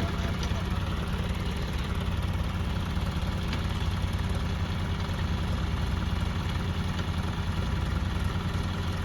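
Tractor diesel engine running steadily with a low, even rumble.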